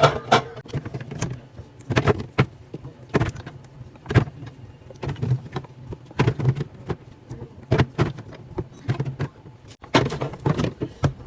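Irregular clatter of containers and food items being handled and set down while a fridge is restocked: a run of sharp knocks and clinks, several a second.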